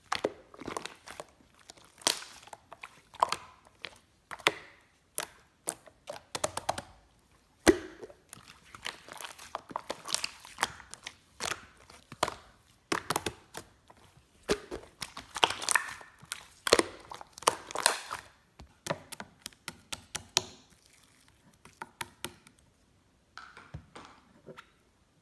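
Slime being squeezed, poked and stretched by hand: rapid runs of sharp crackling clicks and pops, broken by short pauses near the end.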